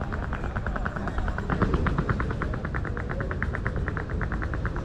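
A rapid, even rattling clatter of about eight to ten clicks a second over a busy street background, stopping near the end.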